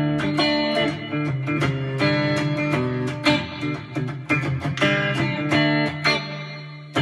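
Gretsch G2622T Streamliner electric guitar played on both pickups together, a run of picked notes and strummed chords, with a chord left to ring and fade near the end.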